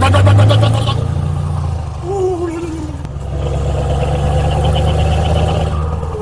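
A man imitating his truck's engine with his voice: a pulsing, rev-like sound that rises in pitch in the first second and comes back later, over the steady low drone of the truck's engine.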